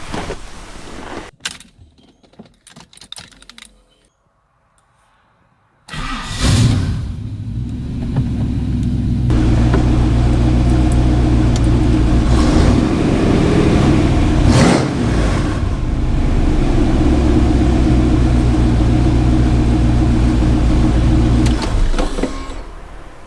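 A few clicks and knocks, then a car engine comes in suddenly about six seconds in and runs steadily with one brief blip of revs partway through, stopping shortly before the end.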